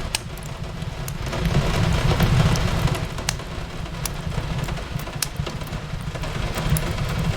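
Wood fire crackling with scattered sharp pops over a steady hiss of rain on a window, with a low rumble underneath that swells about two seconds in and eases.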